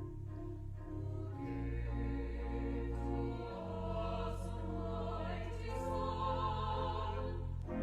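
Sacred choral music: voices singing slow, held chords over a sustained low accompaniment, the chords changing every second or two.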